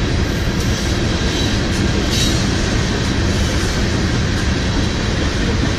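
Freight train of railroad tank cars rolling past close by, steel wheels running on the rails in a steady, loud rumble.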